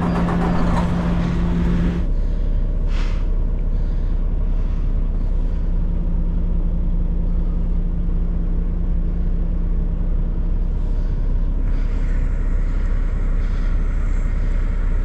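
Semi-truck diesel engine idling steadily. A short hiss comes about three seconds in, and a broader hiss joins near the end.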